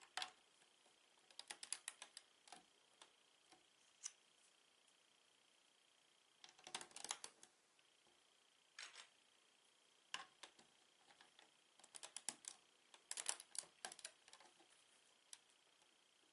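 Small plastic Lego pieces being handled and clicked together: quiet, sharp clicks in quick clusters, with short pauses between.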